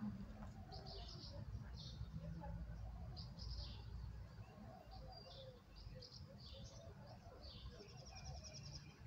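Small songbirds chirping in short, scattered calls, with a fast, even trill near the end, over a low steady rumble.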